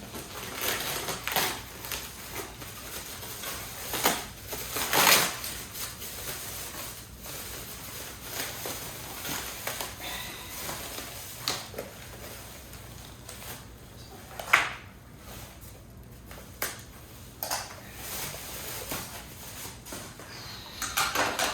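Packaging rustling and crinkling, with scattered sharp knocks and clicks, as office chair parts are unwrapped and handled.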